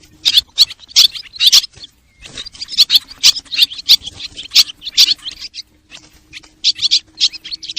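A flock of swallows chirping and twittering: fast runs of short, high chirps, broken by brief pauses about two seconds in and again around six seconds in, over a faint steady hum.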